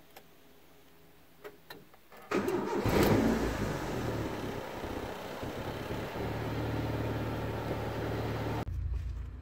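Honda car engine started: after a couple of faint clicks it cranks and catches about two seconds in, flares up briefly, then settles into a steady idle.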